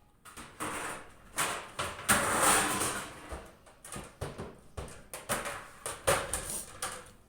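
Close-up chewing and crunching of raw eggplant: irregular crisp bites and mouth sounds, densest about two seconds in.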